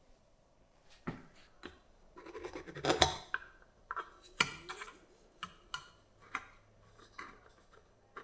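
Parts being handled at a workbench: a string of separate sharp clicks and knocks, with a louder scraping, rattling stretch about two to three seconds in.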